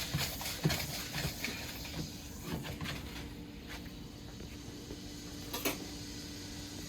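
Light clicks and knocks of cookware at a stovetop, with one sharper click about five and a half seconds in, over a faint steady hum.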